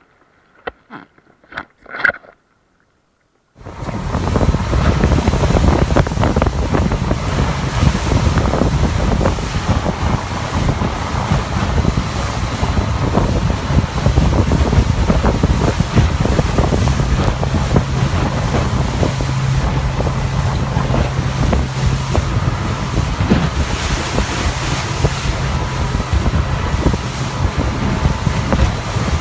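Heavy wind buffeting the microphone over a steady low engine drone, cutting in suddenly about three and a half seconds in after a few short clicks.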